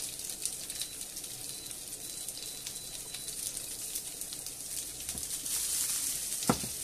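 Red pepper strips and garlic cloves frying in a pan, a faint steady sizzle with fine crackles that grows a little louder near the end. A single knock sounds near the end.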